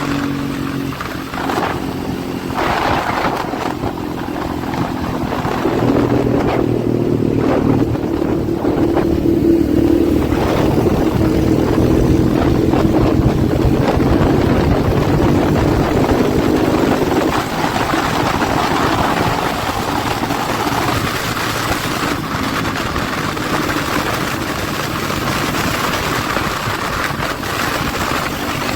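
Motorcycle engine running steadily, louder from about six seconds in and easing off again around seventeen seconds in.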